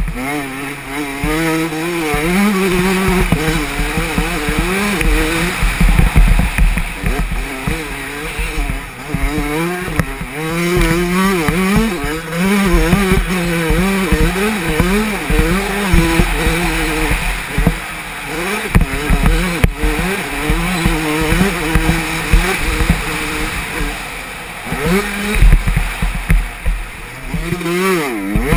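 Yamaha 125 two-stroke motocross bike engine revving hard and dropping off again and again, the pitch climbing and falling every second or two as the rider accelerates, shifts and backs off. Wind rumble buffets the helmet-mounted microphone.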